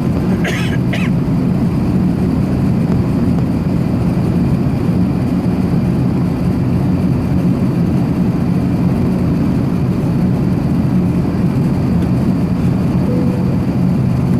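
Steady cabin noise inside an Airbus A380-861 in flight: a low, even drone from its Engine Alliance GP7200 engines and the rushing airflow, with no change in level.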